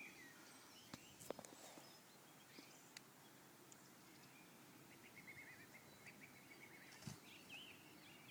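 Near silence: faint outdoor ambience with distant birds chirping, mostly in the second half, and a few faint ticks.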